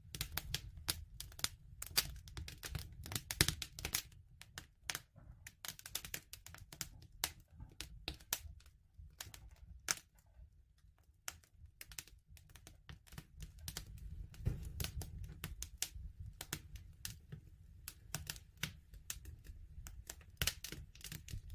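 Wood fire crackling, with dense irregular pops and snaps over a low steady rumble of the flames; it cuts off suddenly at the end.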